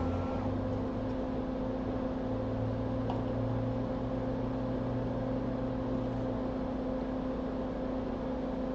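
Steady electrical hum and fan whir of running bench equipment, with a deeper hum that drops out about six seconds in.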